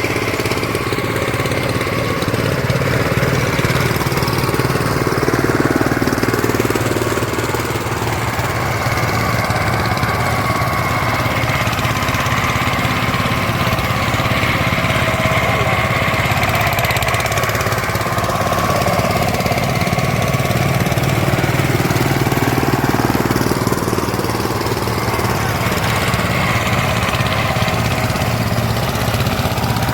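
VST Shakti 130 DI power tiller's single-cylinder diesel engine running steadily, with a fast, even beat.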